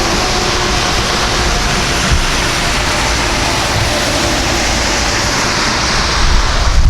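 Jet airliner engines roaring steadily as the aircraft passes close by, with a heavy low rumble building near the end.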